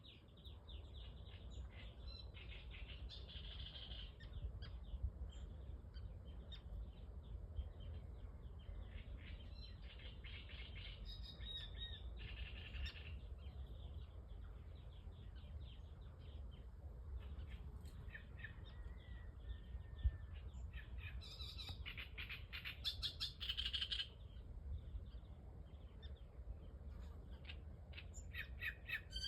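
Small songbirds chirping and calling, with a dense run of rapid chirps about three-quarters of the way through, over a steady low rumble.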